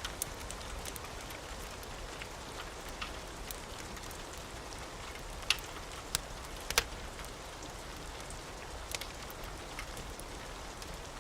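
Steady hiss of rain with a few sharp crackles and pops from a wood fire, the loudest clustered about five to seven seconds in.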